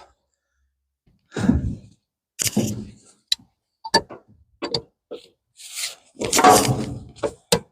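Scattered metallic clicks and knocks, with a few longer scraping rushes, as a strut's retaining clip is worked by hand around the strut collar.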